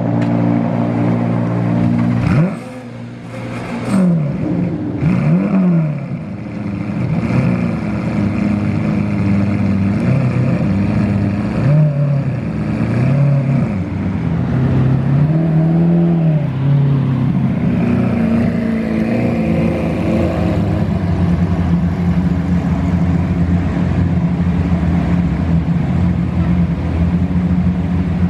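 Car engine running. A steady tone breaks off suddenly about two seconds in; the pitch then rises and falls repeatedly, in about a second each time, through the first half, and holds steady for the rest.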